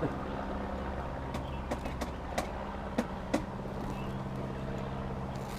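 A steady low engine hum, with six sharp clicks and taps between about a second and a half and three and a half seconds in.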